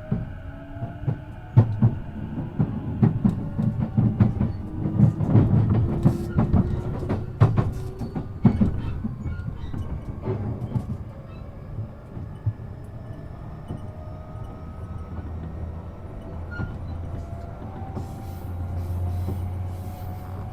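E233 series 7000 electric train running, its wheels clattering over rail joints in a dense run of knocks through the first half. A faint motor whine slowly rises in pitch, and the running settles into a steadier rumble after about eleven seconds.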